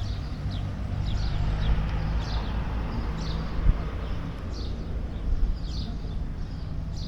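Birds chirping: short downward-sliding chirps repeating every second or so, over a steady low rumble.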